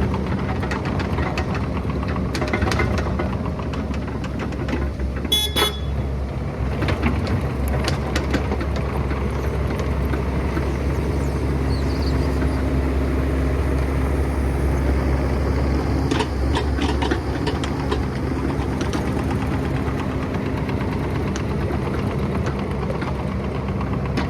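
Excavator's diesel engine running steadily, with scattered knocks and clanks and a brief high squeal about five seconds in.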